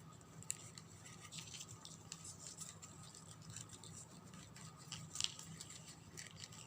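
Faint handling of satin ribbon while a coin is fitted into the folded ribbon: soft rustling and scratching with small ticks, a sharper one about half a second in and another a little after five seconds. A faint steady hum lies underneath.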